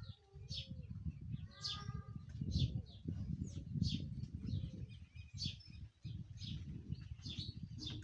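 A bird chirping repeatedly, short high falling notes about once a second, over a loud, irregular low rumble.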